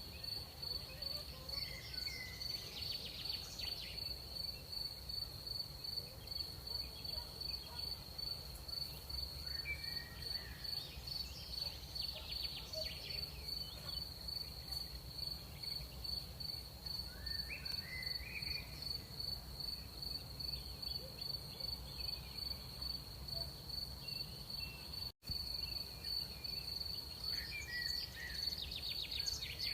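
Crickets chirping in a steady, fast-pulsing high trill. A few short chirping calls from other night creatures come and go over a faint low rumble, and the sound drops out for an instant once, near the end.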